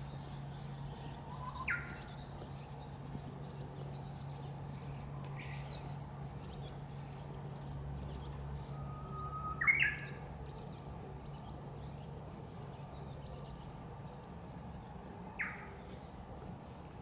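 Birds chirping softly, with a few louder, quick rising calls about two, six, ten and fifteen seconds in; the one near ten seconds is the loudest. A steady low hum runs underneath.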